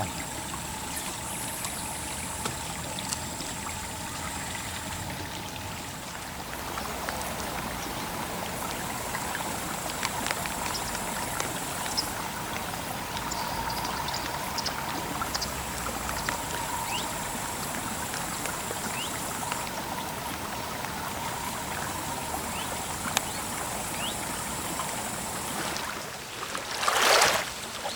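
River water trickling and flowing steadily at the bank, with two louder rushing swells of water noise near the end.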